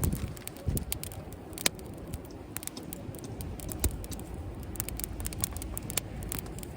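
Wood fire crackling in a compact fire pit: irregular sharp pops and snaps over a low rumble.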